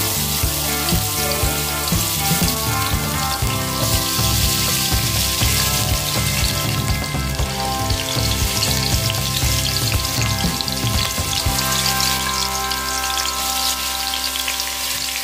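Chopped onion sizzling as it fries in hot oil in a pot, a steady crackling hiss, with background music playing over it.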